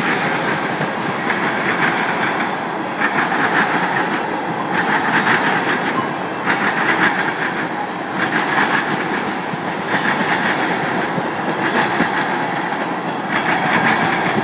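Norfolk Southern tank-car train rolling past, its steel wheels clacking over the rail joints and the diamond crossing. A louder burst of clatter comes about every second and a half as each car's trucks go over.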